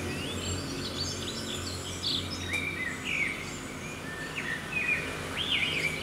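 Birds chirping and calling in short, quick notes, several overlapping, over a low steady hum.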